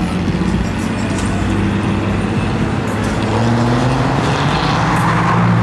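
A car engine running close by, its pitch rising from about three seconds in as it speeds up, over the noise of street traffic.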